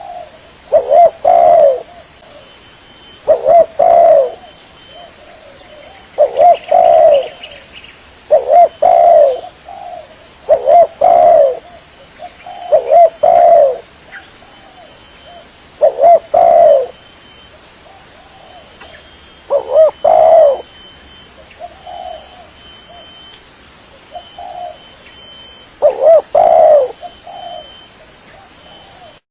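Spotted dove (tekukur) cooing: short phrases of two or three low coos, repeated about every two to three seconds. It is a lure call for attracting wild doves.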